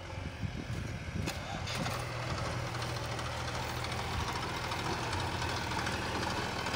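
Diesel engine of a heavy farm or construction machine idling steadily, with a couple of short clicks between one and two seconds in.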